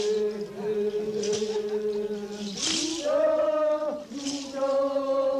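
Men's ritual chant: long held notes sung together, stepping up in pitch about three seconds in, with a short hissing stroke about every second and a half.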